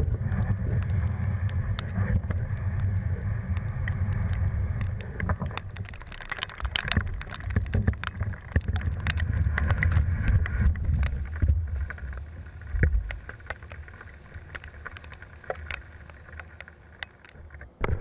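Wind buffeting the microphone as a low rumble that eases after about twelve seconds, with scattered ticks and taps from about five seconds in.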